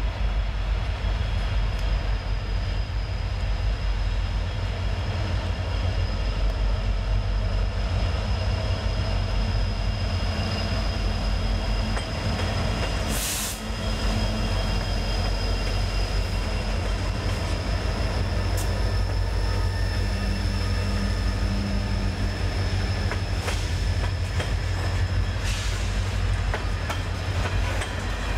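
Freight train cars rolling past with a steady low rumble and a thin, steady high-pitched wheel squeal. There are two brief noisy flares, one about halfway through and one near the end.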